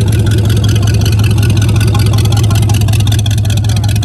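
1966 Chevrolet Nova's engine running at a loud, steady idle, its exhaust giving a quick, even pulse.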